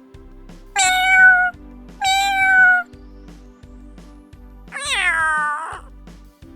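Domestic cat meowing three times, the last meow longer and falling in pitch, over soft background music.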